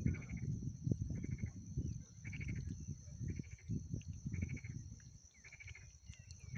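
An animal's short pulsed call repeated about once a second, over low irregular rumbling and knocks.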